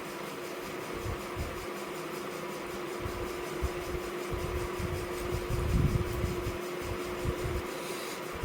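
Steady fan-like hum with a faint steady tone, under soft, irregular low thumps that come most thickly about six seconds in.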